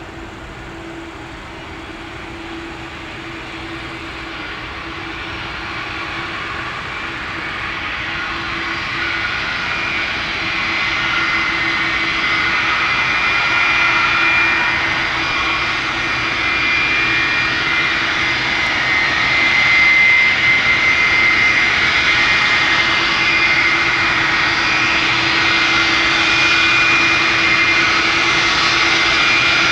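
Boeing 747-400F freighter's four jet engines running with a high whine, getting steadily louder.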